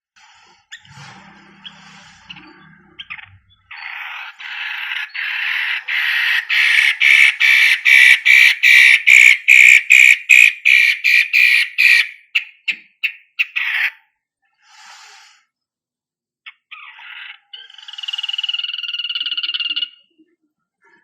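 Long-tailed shrike (cendet) singing: a long run of harsh, rasping notes repeated about three times a second, loudest in the middle, then a few short calls and a buzzy phrase near the end.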